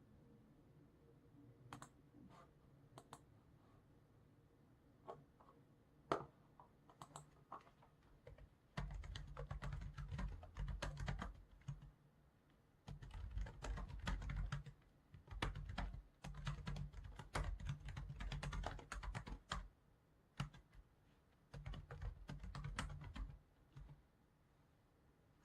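Computer keyboard typing in several bursts of one to three seconds, broken by short pauses, after a few scattered single clicks in the first several seconds.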